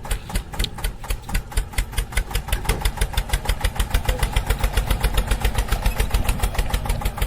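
Mini DIY tractor's small engine running with a fast, even chugging beat, about eight pulses a second, as the tractor drives off.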